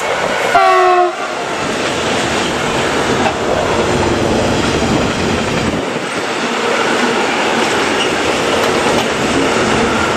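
An electric locomotive sounds a short horn blast about half a second in as it passes, its pitch dropping slightly. Then comes the steady rolling noise of an intermodal freight train's wagons going by.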